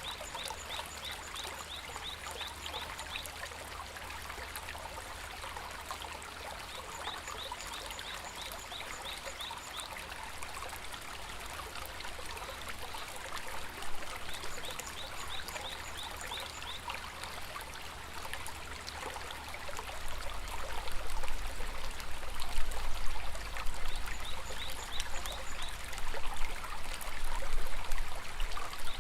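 Shallow stream babbling and trickling over stones. Every several seconds an animal gives a rapid, high, chirping trill lasting a few seconds, and about two-thirds of the way through a low rumble grows louder under the water.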